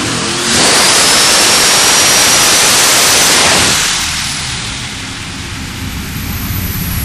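Turbocharged drag car engine making a full-throttle pull on a chassis dyno: about half a second in it jumps to a loud, wide rush of noise with a high whine rising through it for about three seconds. It then backs off and drops to a low idle.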